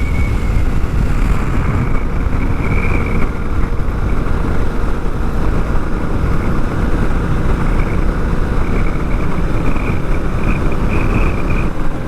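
Honda Africa Twin's parallel-twin engine running steadily at highway cruising speed, about 57 mph, under a heavy, even rush of wind and road noise.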